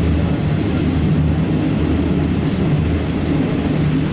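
Passenger train running at speed, heard from inside the carriage: a steady low rumble of wheels on the rails with a constant hum.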